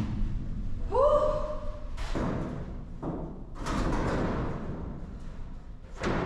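Heavy cut section of steel shipping-container wall being shifted by hand: thuds and scraping of metal, with a short rising squeal about a second in and sharp knocks a little after two seconds and near the end.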